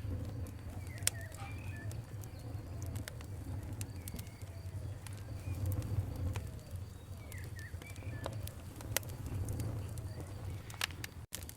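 Campfire crackling: scattered sharp pops over a low steady rumble, with birds calling in the background. A momentary dropout comes near the end.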